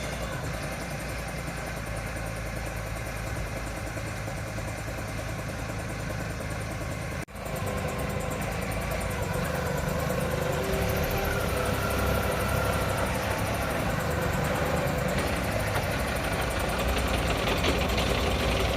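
Engine of a Kaystar Pioneer 35 Pro 3.5-ton rough-terrain forklift running steadily. It breaks off for an instant about seven seconds in, then carries on a little louder.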